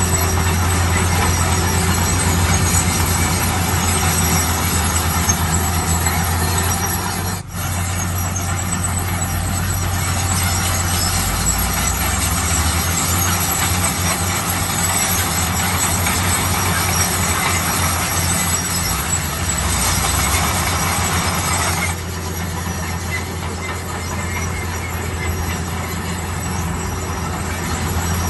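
Heavy construction machinery running: a steady low diesel drone under a wide mechanical noise. The sound drops out briefly about seven seconds in, and the upper noise falls away somewhat after about twenty-two seconds.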